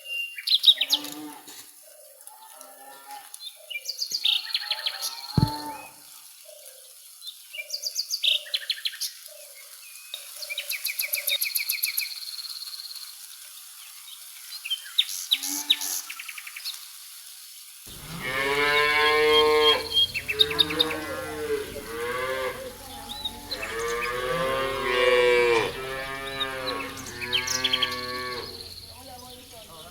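Cattle mooing: a string of loud, long calls that begin about two-thirds of the way in. Before them come only quieter short repeated notes and high trilling chirps.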